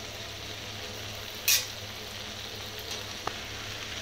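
Small onions, tomatoes and garlic frying in oil in a pan heaped with freshly added greens: a soft, steady sizzle, with a short sharp hiss about a second and a half in, over a low steady hum.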